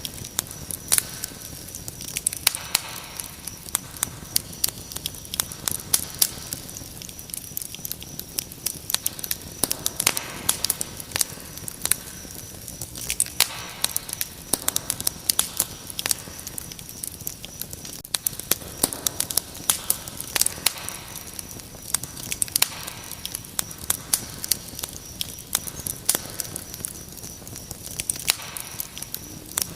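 Wood fire crackling with frequent sharp pops, over a steady high-pitched cricket chirring.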